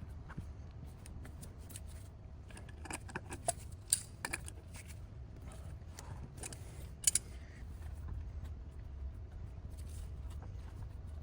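Scattered small clicks and light taps of objects being handled, in clusters about three to four and a half seconds in and again around seven seconds, over a low steady hum.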